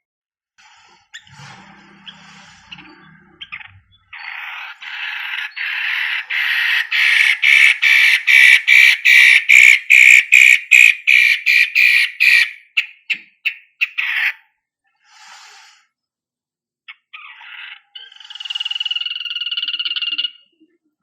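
Long-tailed shrike (cendet) singing: a long run of rasping pulses, about two or three a second, that grows louder, then quickens and fades. Shorter scattered notes follow, and a held whistled note comes near the end.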